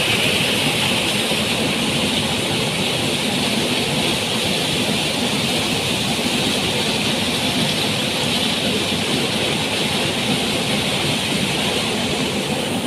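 Steady roar of a waterfall, loud rushing water with no change in level.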